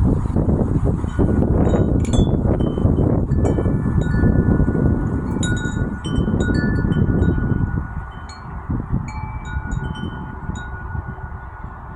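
Metal wind chime ringing in a breeze: its tubes are struck again and again and their tones overlap and hang on. A loud low wind rumble on the microphone dies down about eight seconds in, leaving the chimes clearer.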